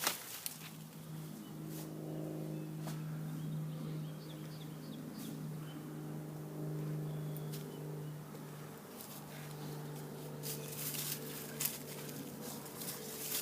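A steady low engine hum, with a few sharp clicks over it.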